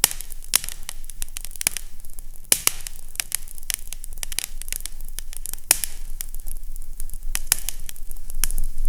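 Wood fire crackling in a fireplace, with irregular sharp pops and snaps several times a second over a faint steady low hum.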